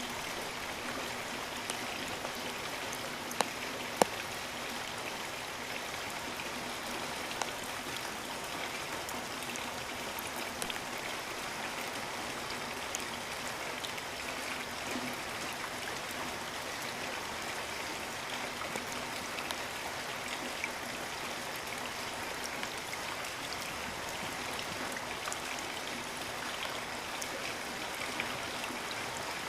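Steady rainfall, an even hiss of rain with scattered individual drops ticking sharply on leaves and surfaces, a couple of louder drop hits a few seconds in.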